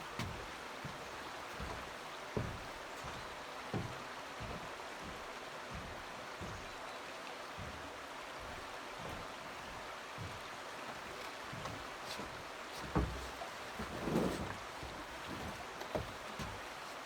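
Steady rushing hiss of a swollen, fast-flowing river, with scattered soft low thuds, a few louder ones about two-thirds of the way in.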